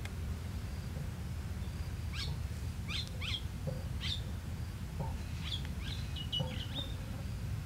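Wild birds calling: a run of short, sharp chirps from about two seconds in, then a few brief whistled notes near the end, over a steady low rumble.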